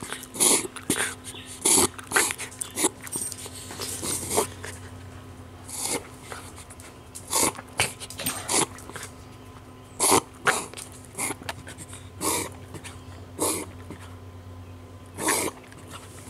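A dog's repeated noisy breaths in irregular bursts, roughly one a second with short pauses between clusters, during a long breathing attack that the owner wonders is asthma or reverse sneezing.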